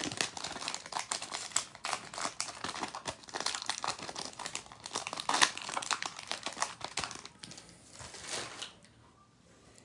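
A trading card pack wrapper being torn open and crinkled by hand, a dense run of crackling that stops near the end.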